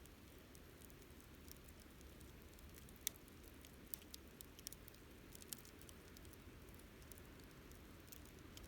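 Wood campfire crackling softly: scattered sharp pops and snaps over a low steady hiss of burning, with the loudest snap about three seconds in and a small flurry of crackles a second or two later.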